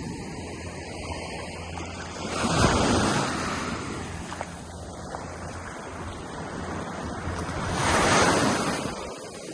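Ocean surf: waves breaking and washing up the shore, with two larger waves swelling up about two seconds in and again near the end over a steady wash.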